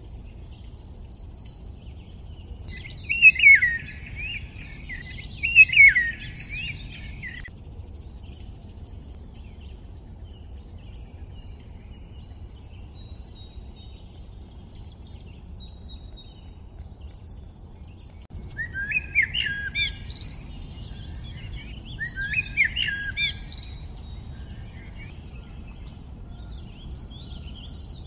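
A songbird singing short phrases of quick chirping notes: two phrases a few seconds in, then two more after a long pause. A steady low background noise runs under it.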